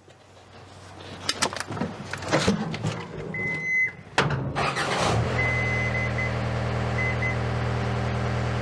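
A few clanks and knocks, then about five seconds in an electric lift motor starts and runs with a steady hum, raising the car body straight up off its engine cradle. A few short high beeps sound over it.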